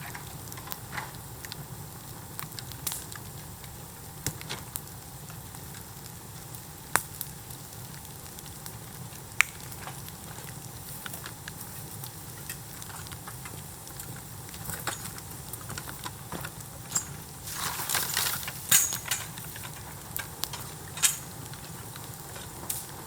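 Bamboo bonfire burning with a steady hiss and scattered sharp crackles and pops, with a denser burst of loud cracking about eighteen seconds in.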